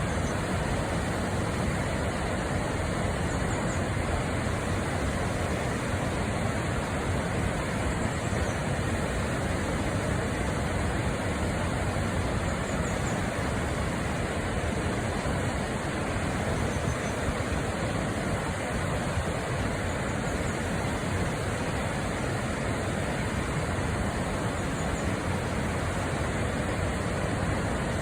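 Waterfall cascading down a mountain river: a steady, even rush of falling water.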